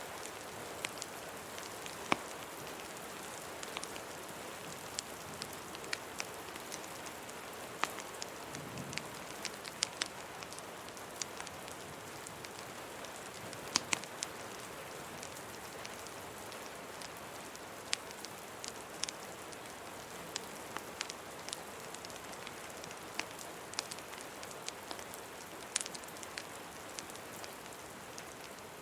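Steady rain falling, mixed with the irregular sharp pops and crackles of a wood fire burning in a fireplace.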